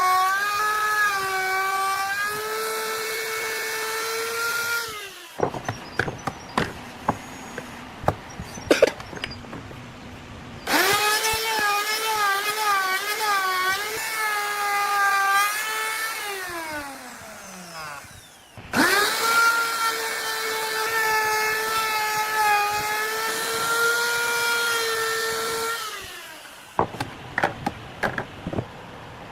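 A handheld power tool's motor running in three long bursts, with a high whine whose pitch wavers. At the end of the middle burst it spins down with falling pitch. Between bursts come sharp knocks and clicks.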